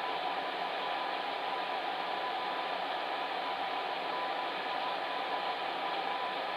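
Electric fan heater running steadily: an even whooshing rush of blown air with a faint steady hum.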